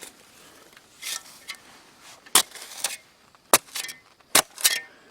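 Hand shovel digging into clayey soil: a series of irregular sharp scrapes and knocks as the blade is driven in and the dirt is lifted.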